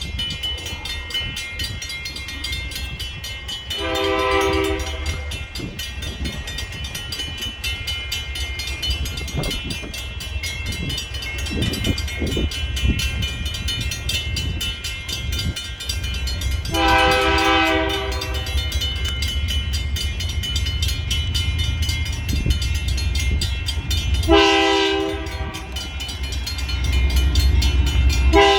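A train's air horn sounds three blasts of a second or so each, with a fourth starting near the end, over the steady low rumble of a moving train.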